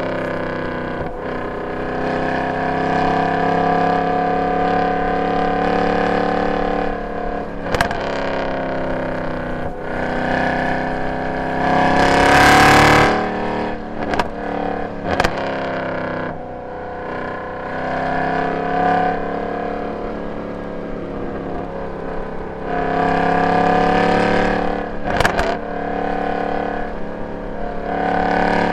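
Mercedes-AMG M156 6.2-litre V8 with long-tube headers, X-pipe and no catalytic converters, driven hard on track: its exhaust note climbs in pitch through several pulls, drops off between them, and has a few brief sharp cracks. The loudest moment is a short burst of loud rushing noise about twelve seconds in.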